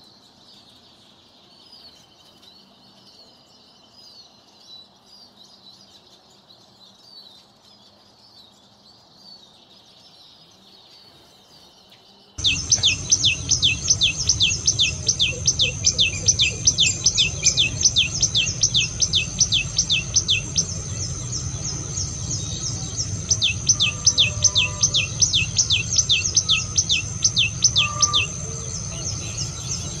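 Faint, soft chirps for the first twelve seconds, then a tailorbird's loud call: a fast string of sharp, rising high notes, about four a second, broken by a short pause and then resumed, over a steady high background tone.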